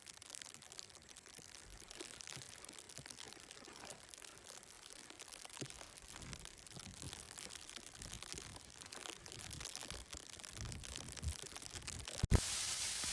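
Quiet scattered crinkling and crunching handling noises. Near the end they break off in a sudden thump, and a louder steady hiss follows.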